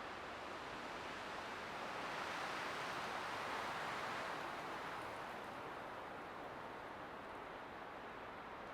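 Light wind blowing through pine trees: a steady hiss that swells into a gentle gust about two to four seconds in, then eases off.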